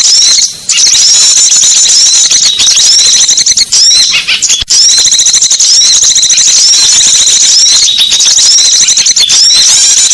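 Small-bird luring call recording: a loud, dense twittering of small songbirds' rapid high chirps, running almost without pause, with short breaks about half a second in and around four and a half seconds in.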